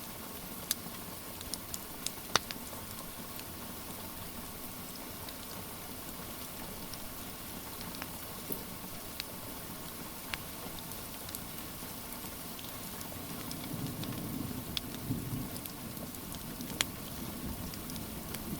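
Steady rain hiss with scattered sharp pops and crackles from a wood fire. A low rumble swells briefly about three-quarters of the way through.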